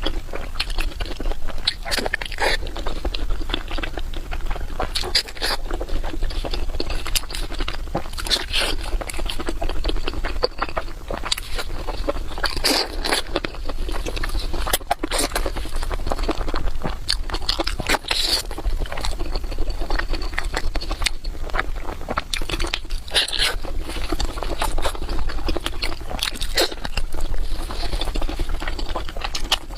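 Close-miked chewing and biting of food: wet, crunchy mouth sounds with many irregular crisp clicks, going on without a break.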